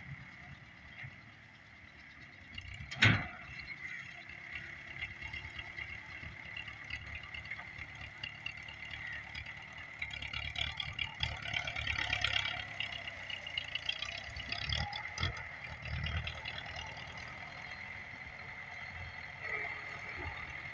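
Tractor engine running steadily, with one loud sharp knock about three seconds in and busier clattering in the middle of the stretch.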